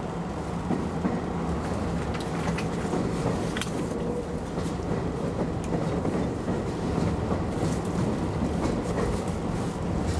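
Keio Inokashira Line express train running on the rails, heard from on board: a steady rumble of wheels on track with a low hum and a few scattered clicks from rail joints.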